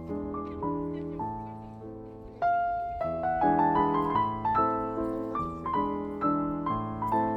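Background piano music: a slow run of single struck notes over held chords, growing louder about two and a half seconds in.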